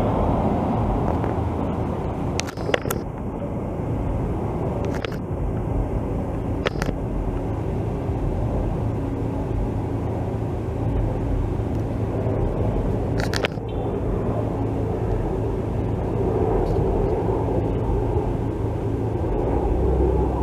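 Steady low engine rumble, with a few short sharp clicks along the way.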